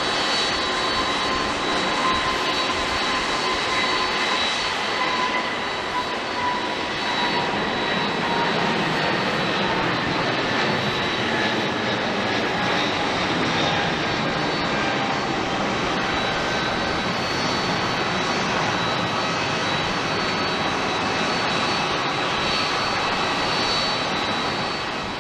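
Jet airliner engines running, a steady loud rush with a high whine whose tones slowly sink.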